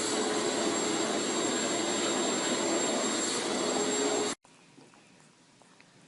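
Steady motor noise, a loud whoosh with a high whine, cut off abruptly about four seconds in, leaving a faint background with a few soft ticks.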